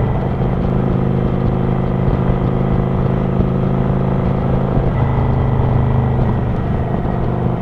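Kawasaki Vulcan 900 Classic LT's V-twin engine running steadily as the motorcycle cruises, with a slight change in engine note about five seconds in.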